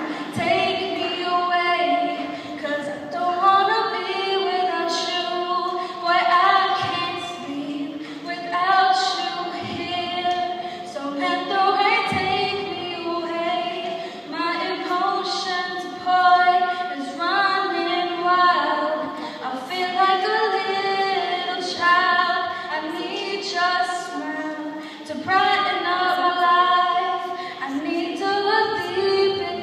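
A female voice singing a cappella: a sustained, flowing melody with no accompaniment.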